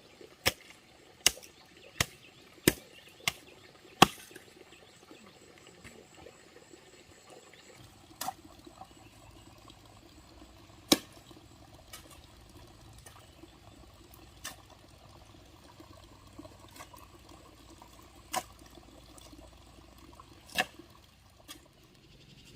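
A series of sharp knocks: six in quick succession, a little under a second apart, then single knocks every few seconds over a faint steady background.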